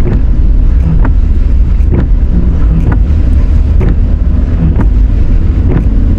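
A small Chevy driving off-road over wet beach sand, heard as a heavy low rumble of wind buffeting the microphone and the vehicle running. Short sharp knocks come roughly once a second.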